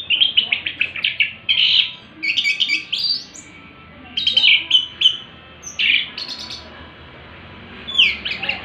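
Orange-headed thrush (anis merah) singing: short phrases of quick, varied notes separated by brief pauses, with a longer gap after about six seconds before the song resumes near the end.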